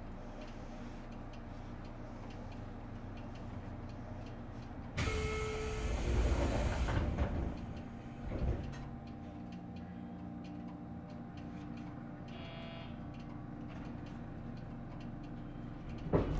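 JR Kyushu 813 series electric train standing at a station with its equipment humming steadily and faint ticking. A sudden loud hiss of released compressed air starts about five seconds in and lasts about two seconds, and a louder noise starts near the end.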